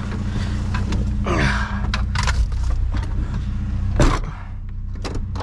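A vehicle engine idling with a steady low hum, under scattered clicks and rustles and one sharp knock about four seconds in.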